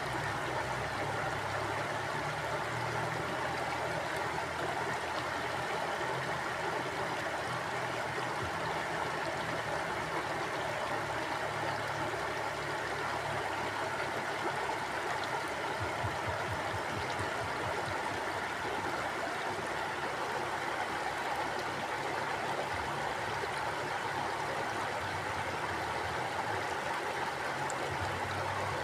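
A shallow river or stream flowing steadily, water rushing and burbling over stones without a break.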